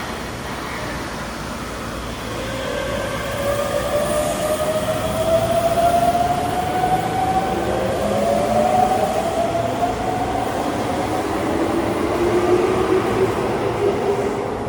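Electric train running with a rising whine from its traction motors, several tones climbing slowly together as it gathers speed, over a steady rumble of the running gear.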